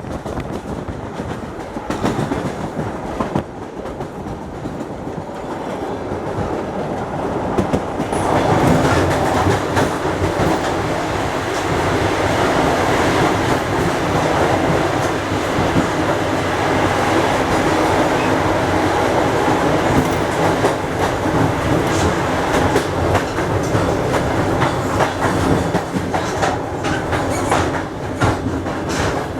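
ER2 electric multiple-unit train running on the rails, its wheels clicking over the rail joints. The running noise grows louder and fuller about eight seconds in, with many short clicks after that.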